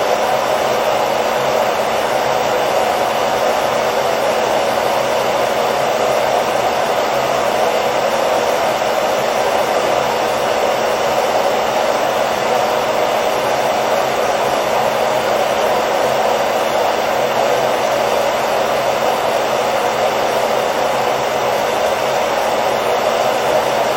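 Hair dryer running continuously at one setting: a steady blowing noise with a faint motor hum beneath it, unchanging throughout.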